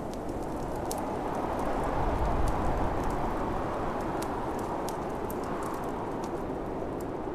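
Snowstorm wind blowing steadily, swelling in a gust about two seconds in, over a wood fire crackling with frequent small sharp pops.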